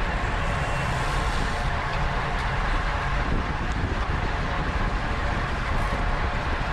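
Steady wind and road noise from a road bicycle being ridden at speed, heard through a camera mounted on the bike or rider, with a few faint ticks.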